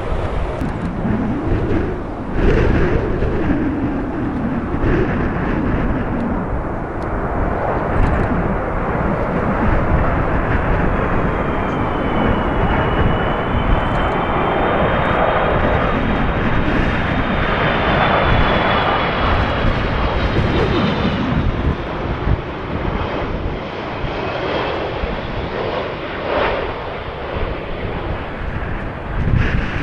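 Jet airliner on landing approach in a strong crosswind, a steady rush of jet noise with a high turbofan whine that rises and fades in the middle, over gusty wind buffeting the microphone.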